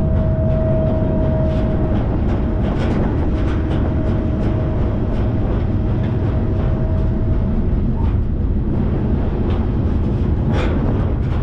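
Freight train rolling, heard from aboard: a loud steady rumble with scattered clicks and knocks from the cars. A steady whining tone is held over it until about seven seconds in, then stops.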